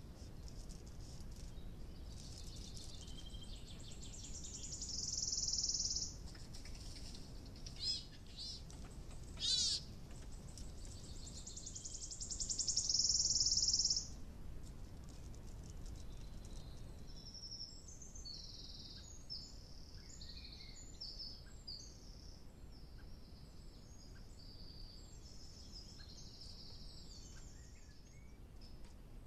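Wild woodland birds singing: two loud high trills about five and twelve seconds in, with quick whistled sweeps between them and later a run of short, high, separate notes. A steady low rumble runs underneath.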